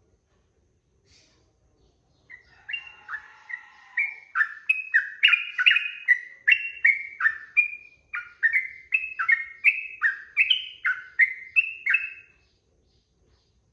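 Sooty-headed bulbul (trucukan) singing a long fast run of loud slurred whistled notes, about three a second, with a brief break midway, after a faint single note near the start.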